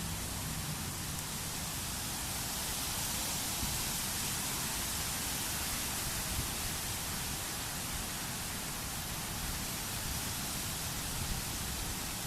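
Steady, even hiss of outdoor noise, with no distinct bird calls or other events.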